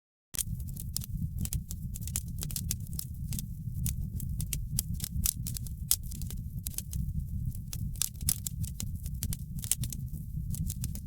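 Wood fire crackling in a fireplace: a constant low rumble of flame with many sharp, irregular pops and snaps. The sound cuts in after a brief dropout at the very start.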